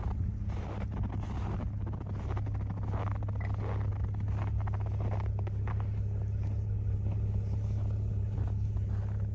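Pickup truck engine running with a steady low drone, with snow crunching and crackling over it.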